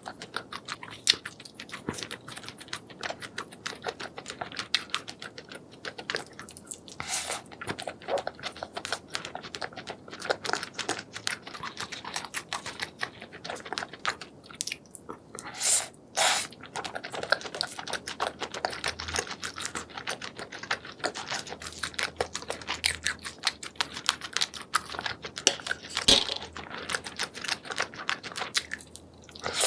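Close-up eating sounds of spicy seafood being chewed: a dense, continuous run of wet clicks and crackles, with a few louder crunches scattered through.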